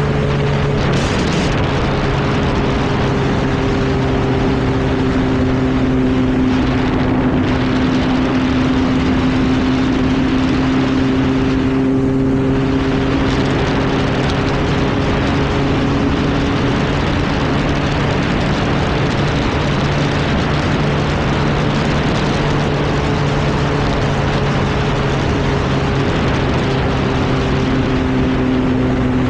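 Sport motorcycle engine holding a steady high-speed cruise, its note barely changing, under heavy wind rush on the rider's microphone. The revs ease slightly near the end.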